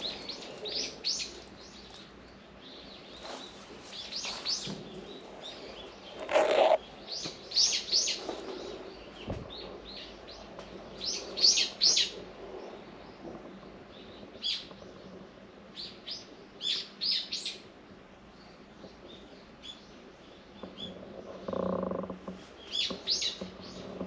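Small songbirds chirping: clusters of quick, high chirps repeated throughout, with one louder call about six and a half seconds in. A brief lower-pitched sound comes near the end.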